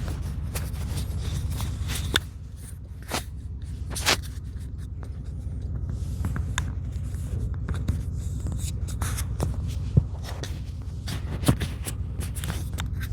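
V8 car engine and road noise heard from inside the cabin while driving, a steady low rumble with no sputtering now that the spark plug wires have been re-seated. Scattered sharp clicks and knocks sound over it, the loudest about two, four, ten and eleven and a half seconds in.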